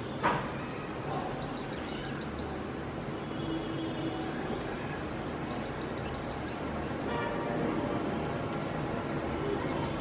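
A bird's high, rapid ticking trill, about a second long, given three times roughly four seconds apart over steady outdoor background noise. A single sharp knock comes just after the start.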